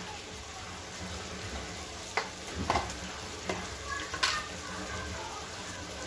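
Boiled vegetables sizzling steadily as they are roasted in spiced masala in an aluminium pot. Four sharp clinks come between about two and four seconds in.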